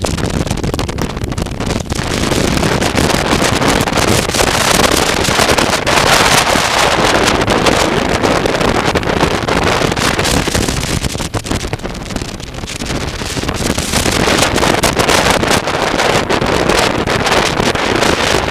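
Wind rushing over the microphone of a moving motorcycle, a loud steady roar with engine and road noise under it, easing for a moment midway.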